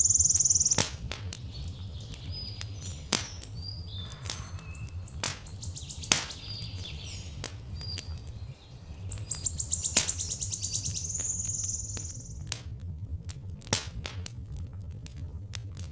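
Wood fire crackling with sharp scattered pops, while birds chirp. A high, fast bird trill sounds at the start and again about nine seconds in, over a low steady rumble.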